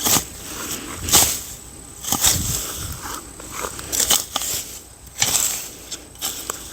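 Wood fire crackling, with irregular noisy bursts every second or so.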